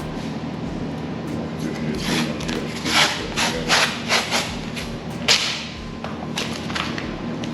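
A run of short scraping strokes over a steady low hum, clustered a couple of seconds in, with a few fainter ones near the end.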